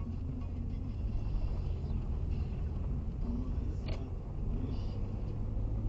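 Car driving along: a steady low rumble of engine and road noise, with a single short click about four seconds in.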